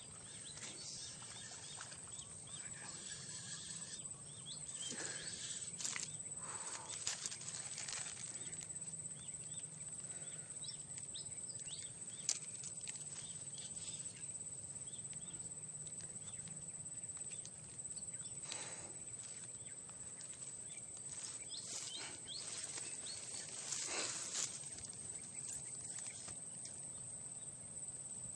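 Steady high-pitched insect drone over outdoor background, broken by several short splashing or rustling noises, the sharpest about 12 seconds in, while a hooked snakehead is being fought on a casting rod.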